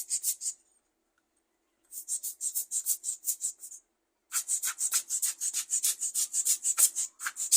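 Quick rasping, hissing strokes, about six a second, in three runs, as dust is cleaned out of an AM4 CPU socket on a motherboard.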